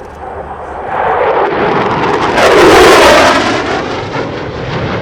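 F-16 fighter jet roaring past low, building to its loudest about three seconds in, then the pitch of the roar drops as it passes and moves away.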